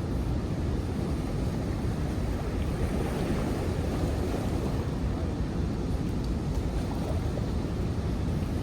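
Steady wind buffeting the microphone, a low, even rumbling noise with no distinct events.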